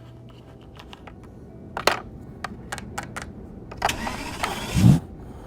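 Scattered light clicks and taps of small plastic toy figures being handled, then a short rushing noise that ends in a heavy low thump about five seconds in.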